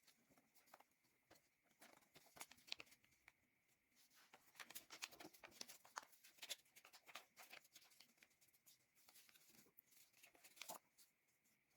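Paper being folded and creased by hand: quiet, irregular crinkles, rustles and sharp little clicks, busiest in the middle.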